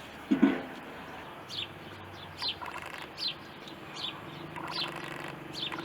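Small birds chirping: short high chirps that fall in pitch, repeated about once a second. A short, louder low sound comes about half a second in.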